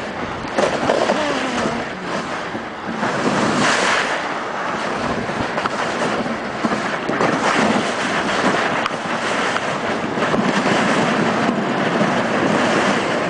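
Steady rushing noise of a moving dog sled: runners sliding over snow, with wind on the microphone.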